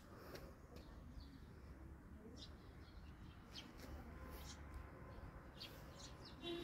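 Near silence: faint outdoor ambience with a few short, faint, high bird chirps scattered through it.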